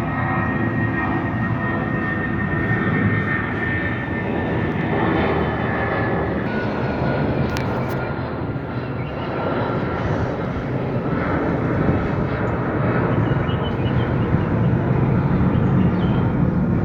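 Boeing 757 freighter's twin turbofan engines at takeoff thrust: a loud, steady rushing noise with a thin high whine that fades over the first few seconds. The noise grows slightly louder toward the end.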